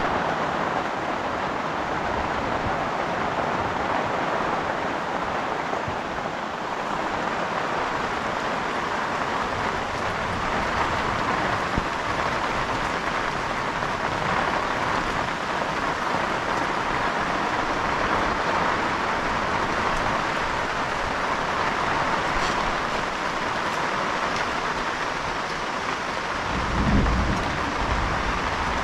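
Steady rain falling, an even hiss that does not let up. A brief low rumble comes near the end.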